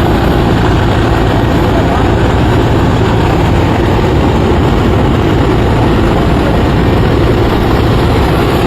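Helicopter engine and rotor running, a loud steady noise without letup.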